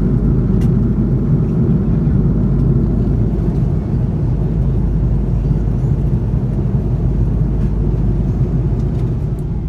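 Steady low rumble of an Airbus A330-300 airliner in flight, heard from inside the passenger cabin: engine and airflow noise.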